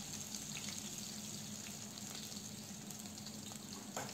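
Sliced onions sizzling faintly in hot oil with mustard seeds in a kadai, with a few faint crackles. There is a light knock near the end.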